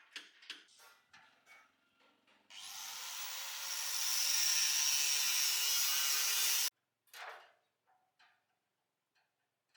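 A workshop tool runs loudly for about four seconds. It starts about two and a half seconds in, builds up, holds steady and cuts off suddenly. Light clicks and knocks of tools being handled come before and after it.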